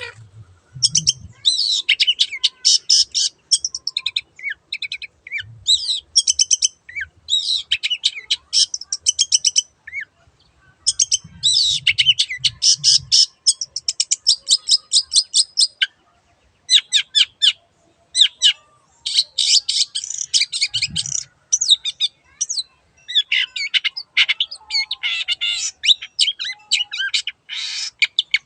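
Long-tailed shrike (cendet) singing energetically: rapid strings of sharp, chattering notes in bursts of one to a few seconds, separated by short pauses.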